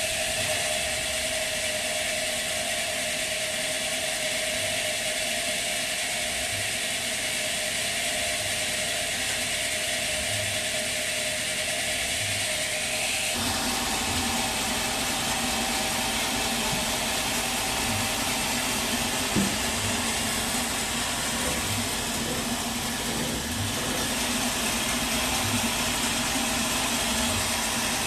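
Sawmill machinery running steadily with a hiss; about halfway through the pitch of its hum drops and the noise changes.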